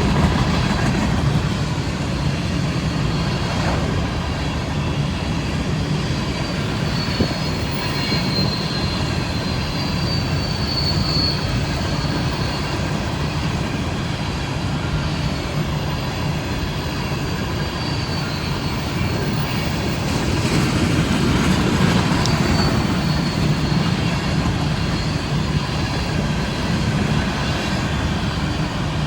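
BNSF coal train rolling past with a steady rumble of wheels on rail. Thin high-pitched wheel squeal rises over it, longest from about 8 to 12 seconds in and briefly again a little after 20 seconds.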